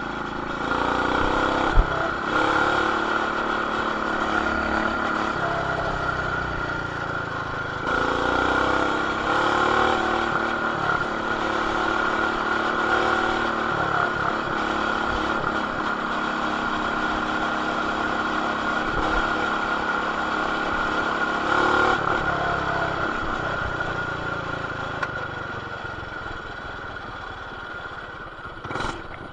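Coleman BT200X mini bike's single-cylinder engine, fitted with an aftermarket header and RLV exhaust, running under way. It revs up in surges about a second in, around eight seconds and around twenty-two seconds, and eases off near the end. A sharp knock comes just under two seconds in, and the sound is muffled by a plastic camera housing.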